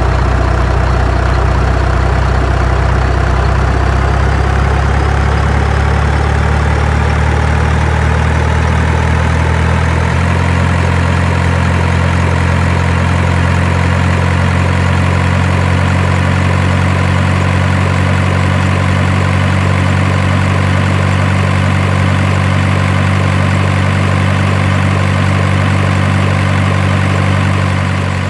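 Heavy vehicle engine running steadily at idle, a deep even drone. About ten seconds in its note shifts slightly, after a faint whine has risen slowly over the first ten seconds.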